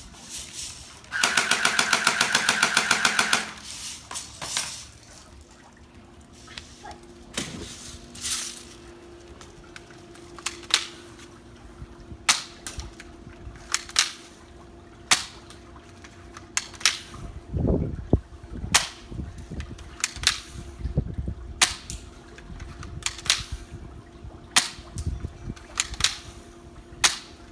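Airsoft guns firing at targets: a rapid full-auto burst lasting about two seconds near the start, then single shots at about one a second through the second half.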